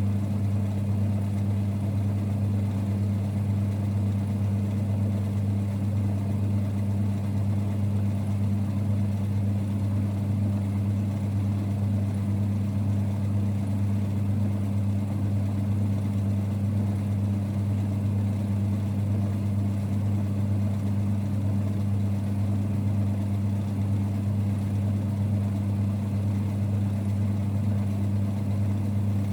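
1946 Boxford lathe running steadily with a constant low rumble and hum that does not change.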